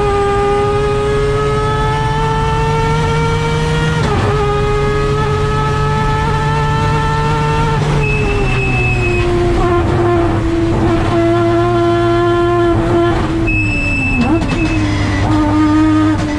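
Three-rotor 20B peripheral-port rotary engine of a Mazda FD RX7 race car, heard from inside the cockpit under hard acceleration. Its pitch rises, breaks for a quick upshift about four seconds in and rises again. After about eight seconds it falls off as the driver lifts and brakes, then steadies, with further downshift dips near the end.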